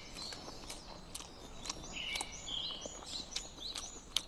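Small birds calling with short, repeated whistled chirps over a steady outdoor background, with scattered sharp clicks.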